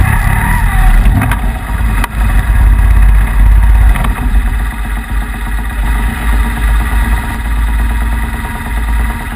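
Motorcycle engine idling with a deep, steady rumble.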